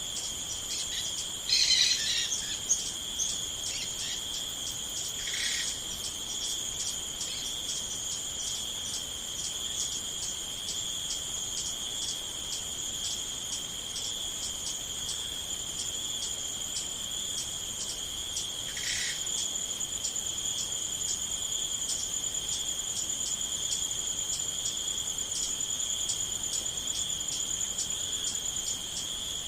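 Steady chorus of insects chirping in fast pulses, with a few short bird calls: the loudest about two seconds in, others near five seconds and near nineteen seconds.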